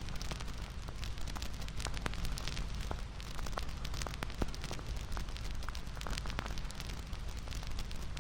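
Wood fire crackling: a steady hiss with frequent irregular pops and snaps.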